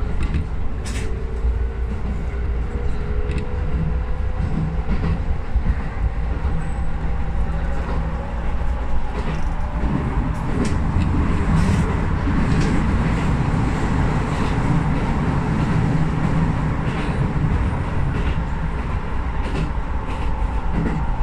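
Keisei 3050-series electric train running, heard from inside the driver's cab: a steady low rumble of wheels on rail with sharp clicks at rail joints. A faint whine rises slowly in pitch over the first several seconds.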